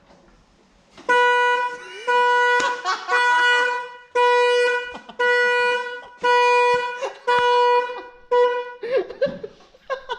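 Car horn sounded in a series of about eight blasts of uneven length, all on the same steady pitch, stopping about a second before the end.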